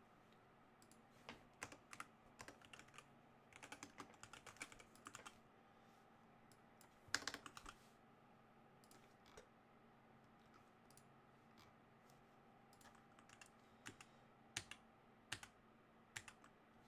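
Faint typing on a computer keyboard in irregular bursts of keystrokes. The densest, loudest flurry comes about seven seconds in, with scattered single keystrokes after it.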